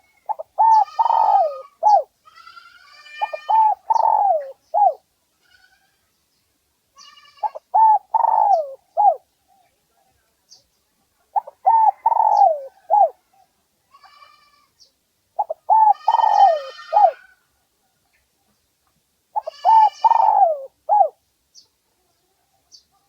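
Spotted dove cooing: six multi-note cooing phrases, one about every four seconds. This is a male's song of the kind used as a lure call to draw in wild doves to fight. Faint high chirps are heard between the phrases.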